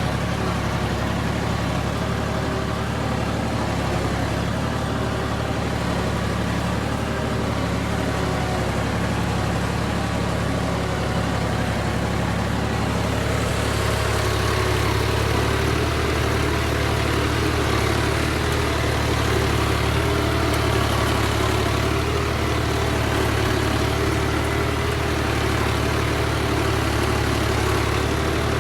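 Al-Ghazi 65 hp tractor's diesel engine running steadily at low revs under load while pulling a plough.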